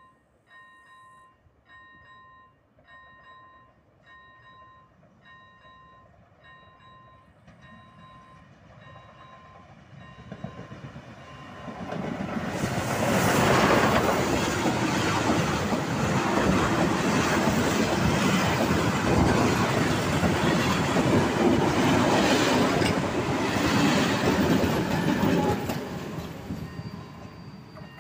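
A level-crossing warning bell ringing about once a second, then a passenger train of coaches rumbling past close by. The train grows loud about twelve seconds in, stays loud for over ten seconds, and fades away near the end, when the bell is heard faintly again.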